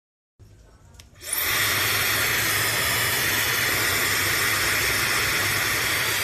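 Laifen SE high-speed hair dryer switched on with a click, spinning up about a second in, then blowing steadily at full speed with a strong airy hiss.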